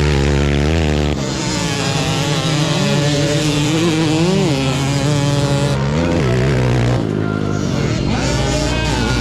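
Motocross dirt bike engines revving, several at once, their pitch rising and falling repeatedly as the riders work the throttles.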